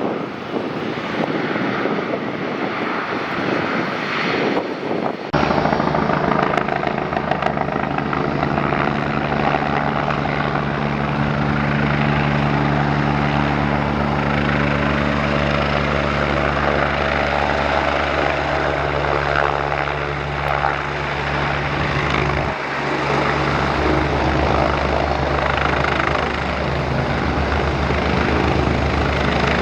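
Aircraft engines running loud and steady, a broad roar with a low, even hum in it. The sound changes abruptly about five seconds in and again about three-quarters of the way through.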